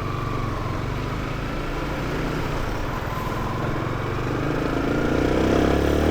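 Small motorcycle engine running while riding in traffic, a steady low hum that rises in pitch and grows louder near the end as the bike accelerates.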